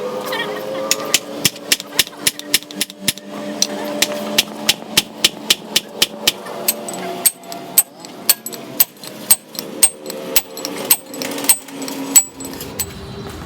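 A hammer striking metal in a quick, steady run of blows, about two to three a second, as a part of a truck power steering gearbox is worked on. The blows stop shortly before the end.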